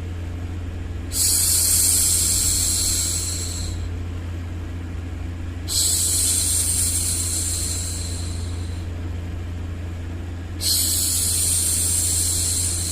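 A woman's voice making long hushing 'shhh' sounds to soothe a baby: three shushes of about three seconds each, roughly five seconds apart, the last running on past the end. Under them runs a steady low hum.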